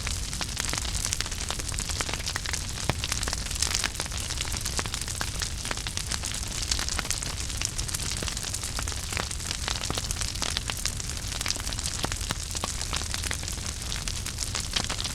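Wood fire burning in a fireplace, crackling and popping with frequent sharp snaps over a steady hiss and low rumble.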